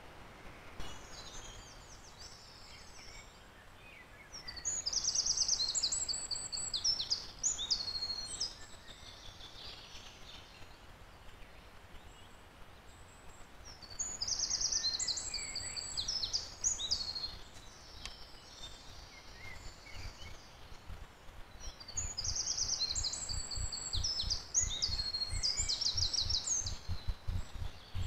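A songbird singing three short, high, trilling phrases several seconds apart, over faint outdoor background noise. Near the end a low, rapidly fluttering rumble comes in.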